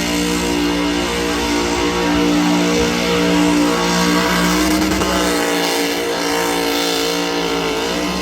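A car's engine held at high, fairly steady revs during a burnout, with music playing along with it.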